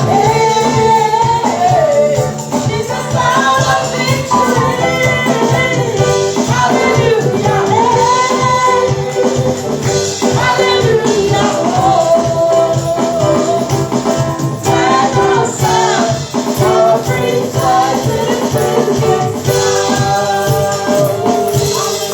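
Gospel praise-and-worship music: voices singing a melody over a steady band accompaniment, with a shaker or tambourine keeping the rhythm.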